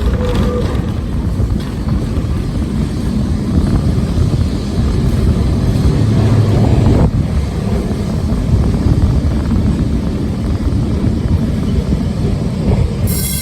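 Electric tram of Lisbon's Tram 28 line running, a loud steady rumble of motor and wheels on the rails. Near the end a bright, high-pitched sound with several tones cuts in suddenly.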